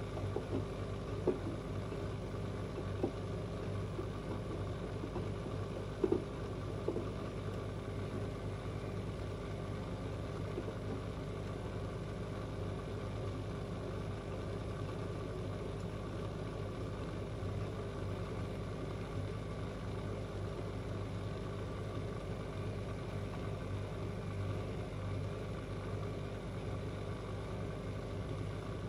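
Washing machines running with a steady hum, a few light clicks in the first seven seconds.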